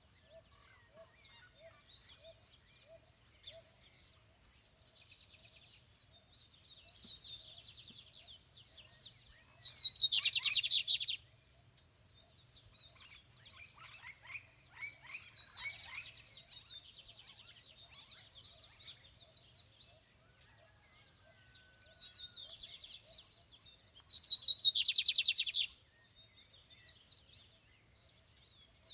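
Songbirds chirping and singing, among them a lined seedeater (bigodinho) delivering fast buzzy trilled song phrases. Two of these phrases, about ten seconds in and again near the end, stand out much louder than the rest.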